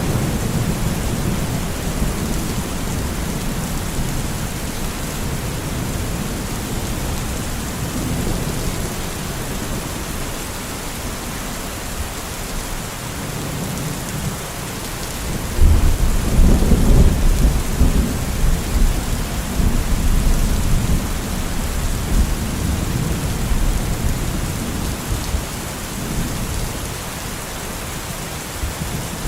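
Steady rain with rolling thunder. A low rumble eases off over the first seconds, then a loud peal of thunder breaks in suddenly just past halfway and rumbles on, slowly dying away.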